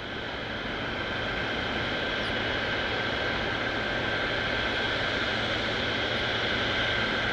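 Boeing 777 jet engines running with a steady high-pitched whine over a broad rush, fading in over the first second and then holding steady.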